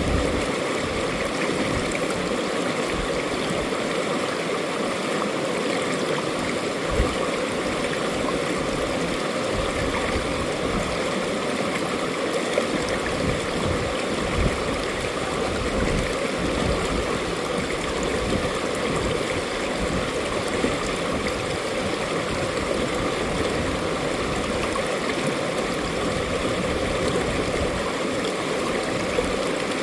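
Mountain stream water flowing steadily over rocks, a continuous rushing with small irregular splashes and gurgles.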